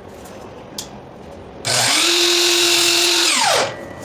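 Electric miter saw starting about one and a half seconds in and cutting a 22½-degree miter through crown molding for under two seconds, then switched off, its motor winding down with a falling pitch.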